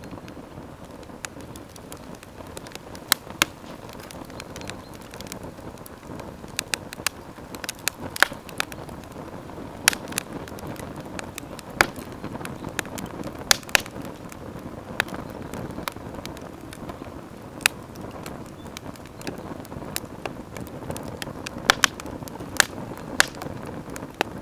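Campfire crackling, with irregular sharp pops and snaps, a few clusters of them, over a steady low rush.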